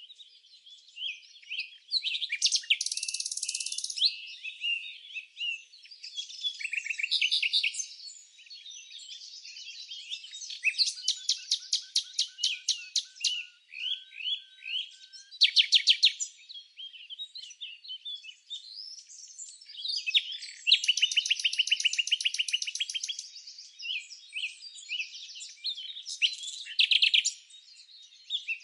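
Several birds chirping and singing continuously, with overlapping high chirps and fast trills of rapidly repeated notes, over no low background noise.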